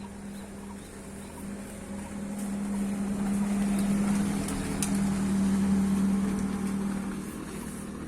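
A motor running with a steady hum, swelling louder through the middle and easing off near the end, as if it passes close by.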